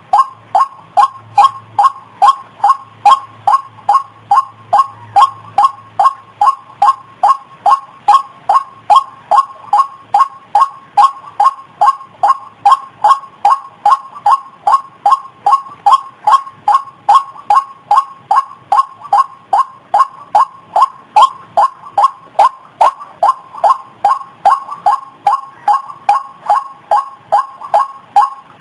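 White-breasted waterhen (ruak-ruak) calling, a short call repeated steadily at about two to three a second in an unbroken series.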